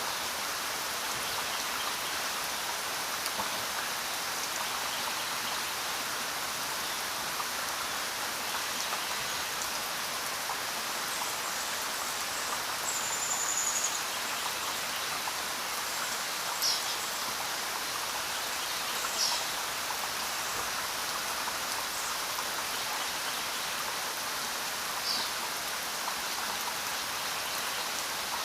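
Steady rain falling on a road and foliage, an even hiss of drops without a break. A few brief high-pitched chirps sound over it, about halfway through and again near the end.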